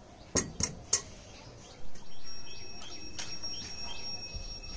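Three quick knocks in the first second as kitchen things are handled, then birds chirping, with a thin steady high tone running behind from about halfway in.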